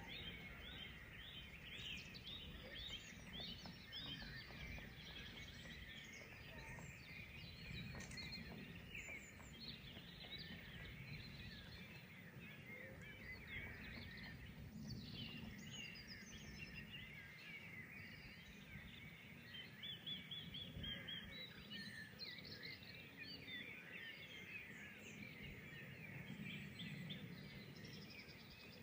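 Several wild songbirds singing together in many quick overlapping chirps and trills, faint and unbroken, over a low, steady background rumble.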